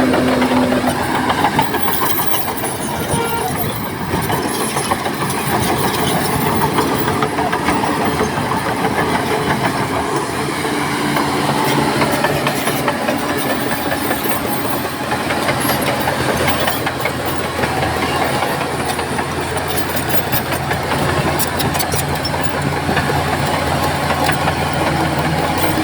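Heavy diesel engine of earthmoving machinery running steadily under work, with clanking and rattling that thickens toward the end.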